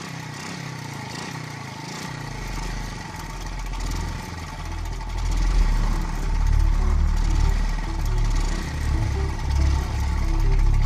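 Motorcycle engine running as it rides off, its pitch rising and falling with the throttle. A low rumble comes in about two seconds in and grows louder.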